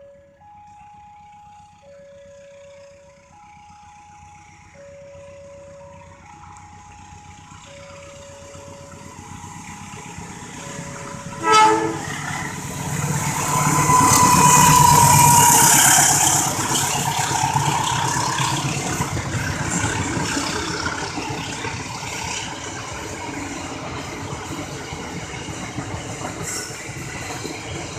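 Level-crossing warning alarm sounding in two alternating tones, switching about every 1.4 s. About a third of the way in a CC 201 diesel-electric locomotive gives a short, loud horn blast, and the train then passes the crossing. It is loudest a few seconds after the horn and keeps running past to the end.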